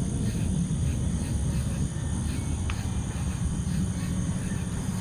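Outdoor night ambience: insects chirping steadily in high tones over a continuous low rumble, with one faint click about halfway through.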